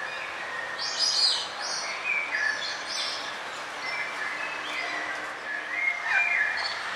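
Several songbirds chirping and trilling over a steady background hiss, in overlapping short calls, loudest about a second in and again near the end.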